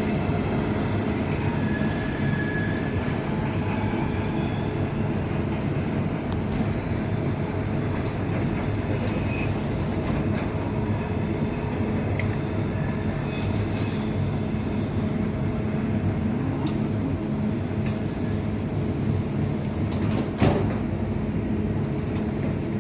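Swiss electric passenger train running through the station, with a steady hum of motor tones. A few sharp clicks of wheels over rail joints or points come through, the loudest near the end.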